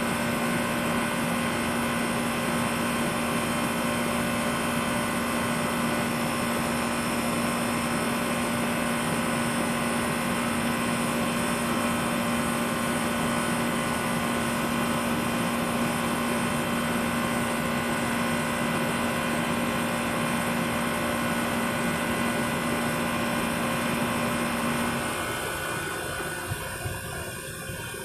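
SmartComfort heat pump running with a steady hum and whoosh. About 25 seconds in, the hum cuts out and the noise starts to fade as the unit shuts down, with a couple of light clicks.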